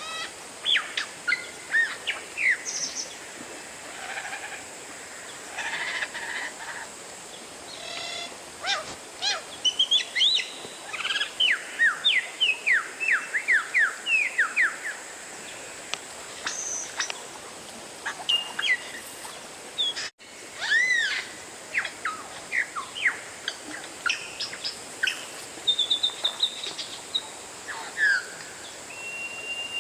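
Oriental magpie-robin (kacer) song: a varied, continuous run of clear whistles, quick falling chirps and short trills. There is a momentary break in the sound about twenty seconds in.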